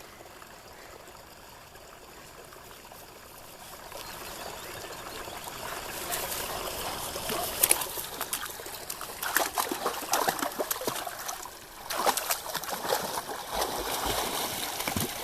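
Water splashing and trickling as dogs paddle in it, faint at first, then building from about four seconds in into irregular splashes with a short lull near twelve seconds.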